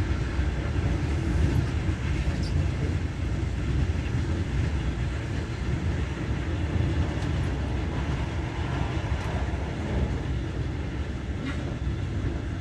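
Passenger train running along the line, heard from inside the carriage: a steady low rumble with a few faint clicks.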